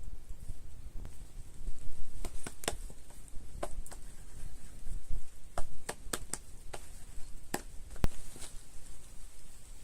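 A series of irregular sharp clicks and knocks, a dozen or so spread unevenly and bunched together around the middle, over a low steady rumble.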